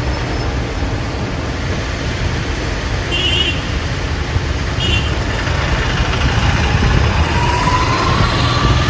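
Steady urban road traffic noise with a heavy low rumble, two short high chirps in the middle and a faint slowly rising whine near the end.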